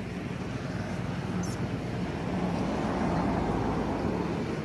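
A motor vehicle's engine running as it passes, growing louder to a peak about three seconds in, then easing off slightly.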